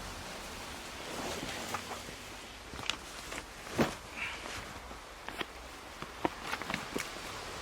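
Wood fire crackling: irregular sharp pops and cracks over a steady hiss, one louder crack near the middle.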